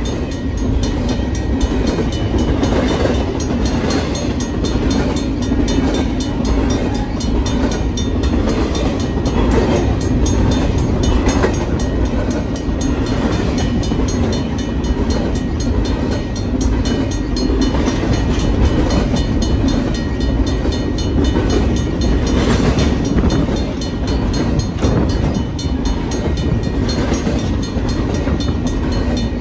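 BNSF double-stack intermodal train's well cars rolling steadily past close by: continuous noise of steel wheels on rail, with scattered clanks.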